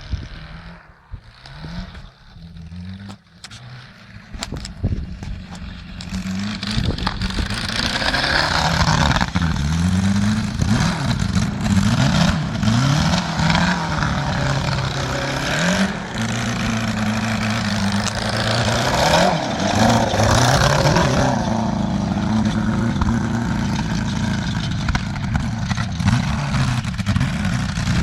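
Homemade quad bike's 1995 Yamaha XJ600 inline-four motorcycle engine running and being revved, its pitch rising and falling over and over as it is ridden. It is quieter for the first few seconds, then louder from about six seconds in.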